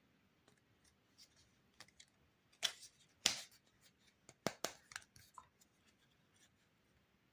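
Toy kitchen play set pieces and packaging being handled: scattered small clicks and rustles, with two sharp snaps a little before the middle and a quick run of clicks just after it.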